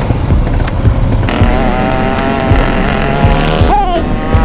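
Motorcycle engines running during a group ride, a loud steady low rumble. About a second in, a higher, steady pitched tone joins it, with a short gliding sound near the end.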